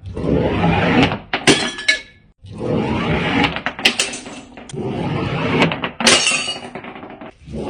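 Glass bottles being smashed one after another, each crash followed by clinking shards, with three main breaks a couple of seconds apart.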